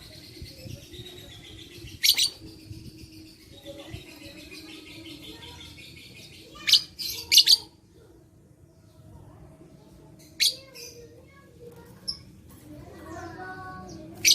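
Lovebird singing: a fast, high chattering trill broken by sharp, loud, shrill calls, one about two seconds in, a quick cluster around seven seconds, and more near ten and a half seconds and at the end.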